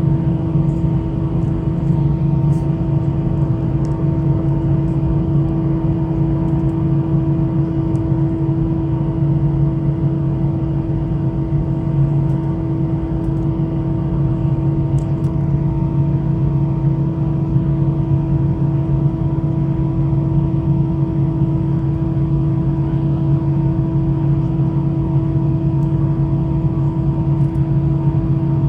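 Airbus A319-112's CFM56 jet engines running steadily: a constant low drone with a steady hum of a few fixed tones over it, unchanging in level and pitch.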